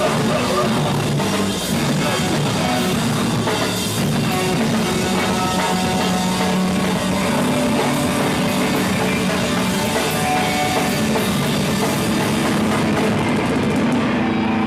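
Rock band playing live, with drum kit and guitar, loud and steady; the highest sounds thin out near the end.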